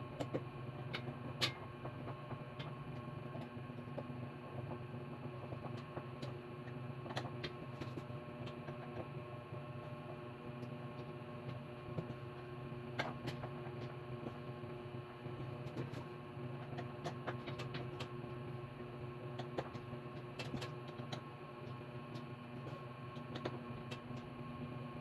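Scattered light clicks and taps, unevenly spaced, as parts of a flat-pack work table are handled and fitted, over a steady hum.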